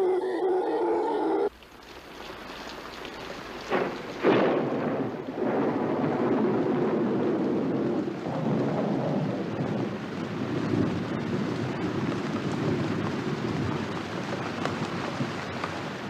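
Thunderstorm: heavy rain falling steadily with thunder, two loud cracks coming about four seconds in. Before that, a steady droning sound cuts off abruptly about a second and a half in.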